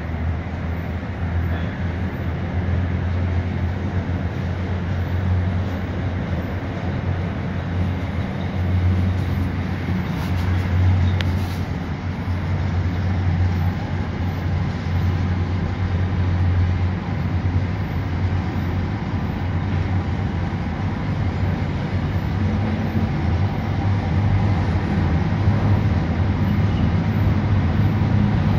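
Freight train of box wagons rolling past: a steady low rumble of wheels on the rails.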